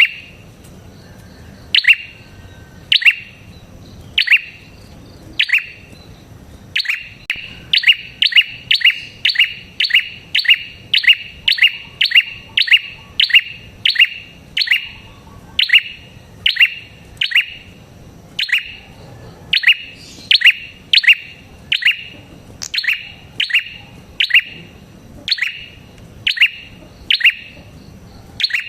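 A prinia (prenjak) calling loudly, a sharp chirp repeated over and over, each note dropping quickly in pitch. The chirps come about one a second at first, quicken to about two a second from about seven seconds in, slow again in the middle, then quicken once more.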